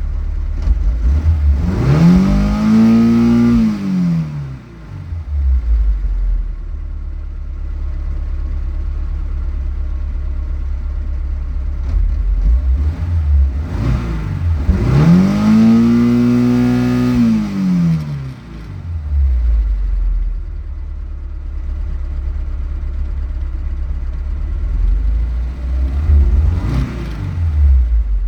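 VAZ-2130 four-cylinder petrol engine idling steadily, revved up twice, the pitch climbing and falling back each time, with a smaller blip of the throttle near the end.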